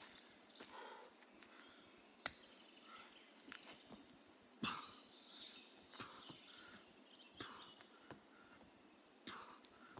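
Faint forest ambience with scattered footfalls and knocks on the forest floor during a bodyweight workout, the sharpest about two, four and a half, seven and nine seconds in, with faint bird chirps.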